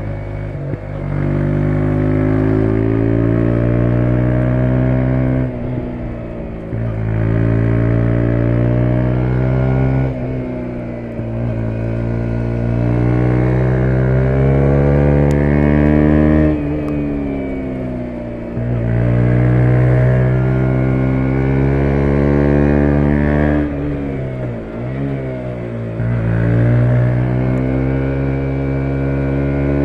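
2017 KTM 125 Duke's 125 cc single-cylinder four-stroke engine pulling through the gears. Its pitch climbs steadily, drops sharply at each gear change every few seconds, and then climbs again.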